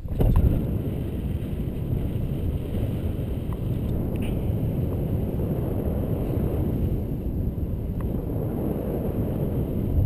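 An-2 biplane's nine-cylinder Shvetsov ASh-62IR radial engine droning steadily in cruise, heard from inside the cabin with a low rumble and rushing air.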